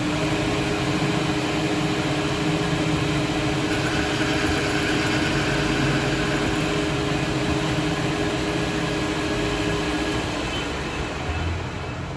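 A workshop machine running steadily: a loud, even hiss with a two-tone hum. The hum cuts out about ten seconds in.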